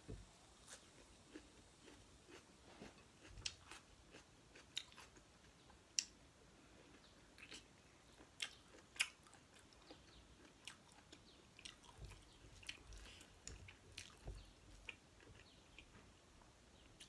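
Close mouth sounds of someone eating rice and pork curry: faint, irregular wet chewing clicks and smacks, a few a second, over a quiet room.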